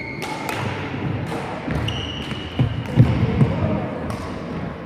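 Badminton play on an indoor court: brief high squeaks of shoes on the floor, a few sharp clicks, and heavy thuds of footwork a little past halfway, with voices in the hall behind.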